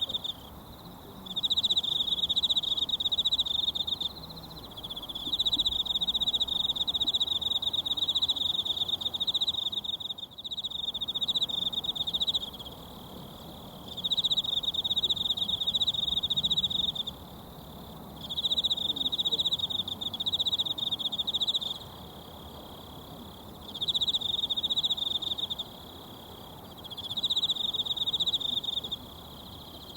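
An insect trilling in a high, fast-pulsing chirr that comes in bouts of a few seconds with brief pauses between, over the faint steady rush of a mountain stream.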